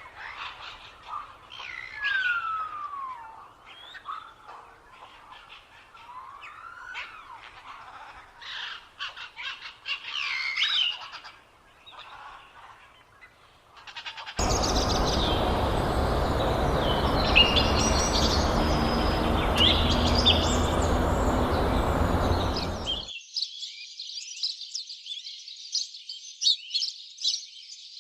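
Songbirds chirping and calling, with many short chirps and some sliding whistled calls. About halfway through, a loud steady hiss comes in under the calls for several seconds and then stops suddenly. After that, fast, dense high chirping continues.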